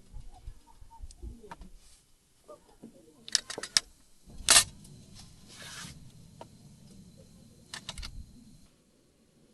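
Camp cooking gear being handled: a quick run of small clicks, then a sharp metallic knock, a short hiss and a few more clicks near the end.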